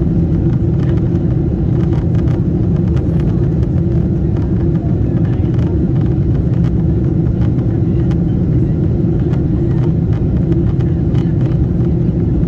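Steady low rumble of a Boeing 747-8's engines and airflow heard from inside the cabin, with faint scattered ticks and rattles above it.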